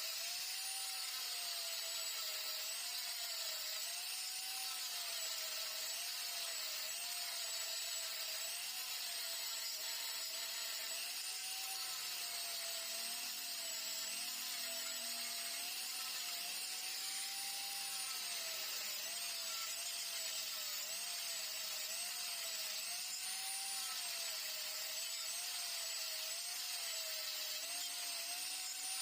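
Electric power tool motor running continuously, its whine dipping and rising in pitch every second or two as it is pressed into and eased off the work.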